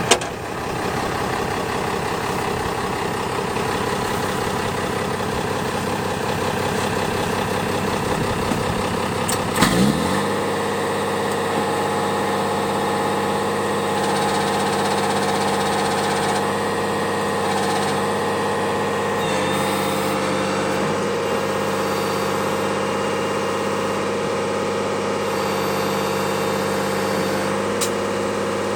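Unimog SEE tractor's diesel engine running steadily. There is a sharp knock about ten seconds in, as the engine note rises and then settles into a steady, slightly higher speed. A click comes near the end.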